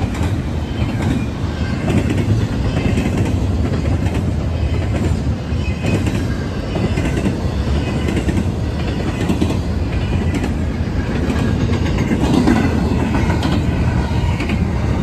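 Double-stack intermodal container train rolling past at speed: a steady rumble of steel wheels on rail with clickety-clack from the wheels over the rail joints.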